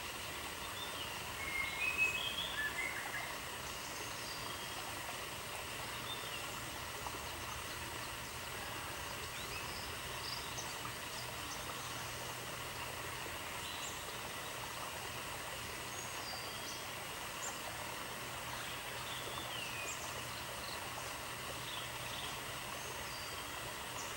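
Steady outdoor nature ambience: an even hiss, with short, scattered bird chirps and a brief cluster of twittering about two seconds in.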